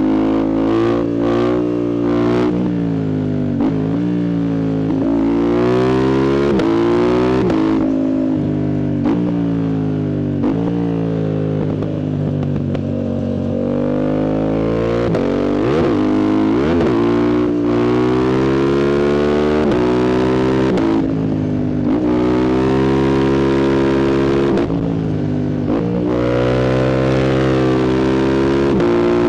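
Yamaha MT-07's 689 cc CP2 parallel-twin engine, on a full exhaust with the dB killer removed, revving hard through the gears. The pitch climbs, then drops sharply and briefly at each quickshifter upshift, several times over. A few sharp pops come near the start, and the revs fall away in places as the throttle is eased.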